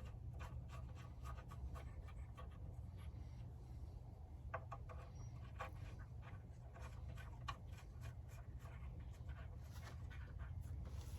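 Faint, scattered light clicks and scrapes of bolts being started back into their holes by hand, over a steady low hum.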